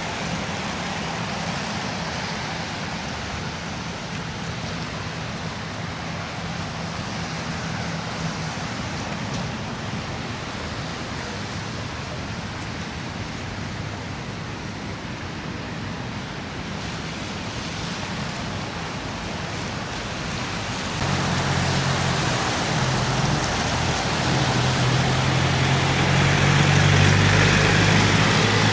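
City road traffic: a steady wash of tyre and engine noise. About two-thirds of the way through, a nearby vehicle's engine hum comes in and grows louder toward the end.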